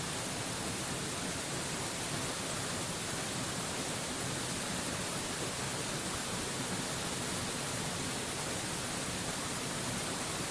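A waterfall's falling water: a steady, even rush of noise that does not change.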